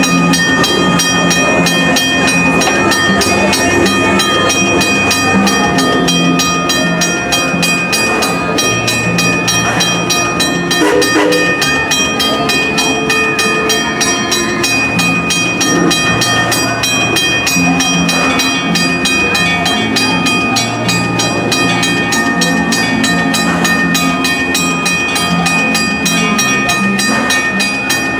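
Six Flags railroad's steam train running, heard from on board, with steady high-pitched tones and fine, regular clicking over the rolling noise.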